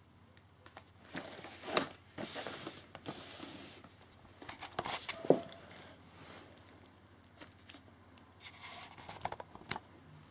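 Fireworks and their packaging being handled: rustling and crinkling in three bursts, with sharp clicks and knocks, the loudest about five seconds in.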